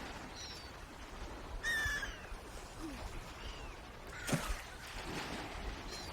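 Swans giving a few short, scattered calls over steady background noise, the clearest just under two seconds in, with a single sharp knock about four seconds in.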